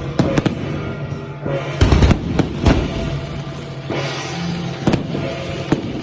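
Fireworks going off in a string of sharp bangs and crackles, the heaviest cluster about two seconds in, over loud music.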